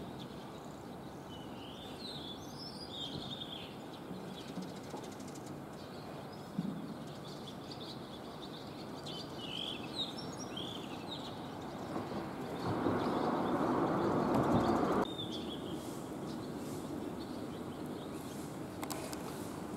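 Birds chirping in short calls over steady outdoor background noise. About two-thirds of the way through, a louder rushing noise swells for a couple of seconds and stops abruptly.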